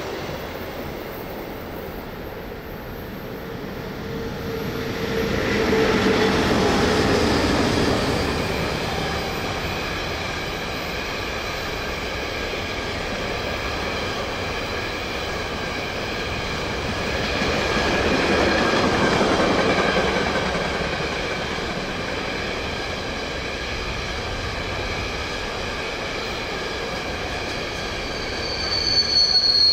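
Train running on rails: steady rolling wheel noise that swells twice, with faint high tones through the middle and a sharper wheel squeal starting near the end.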